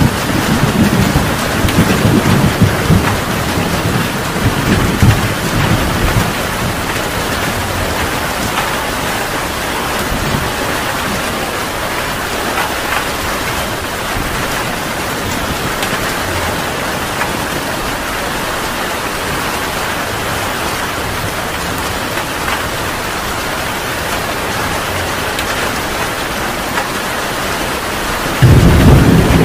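Heavy rain falling steadily, with thunder rumbling over the first few seconds and fading. A loud peal of thunder starts suddenly near the end.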